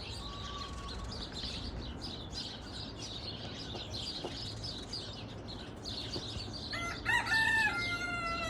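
A rooster crows once, starting about seven seconds in: a loud call in several held steps that falls in pitch at its close. Small birds chirp steadily in the background.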